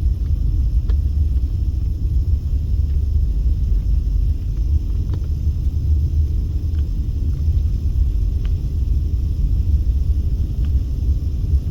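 Steady low road and engine rumble inside a moving car's cabin, with a few faint scattered ticks.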